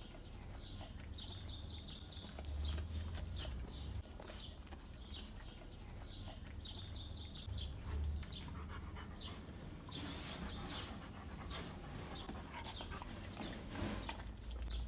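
A dog licking and lapping at ice cream: a steady run of quick, wet smacking clicks. A high chirping trill sounds three times, and there are a few low rumbles.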